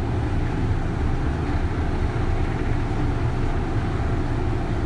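Steady running noise of a Kintetsu 3200 series electric train heard inside a motor car: a low rumble of wheels and motors at an even speed.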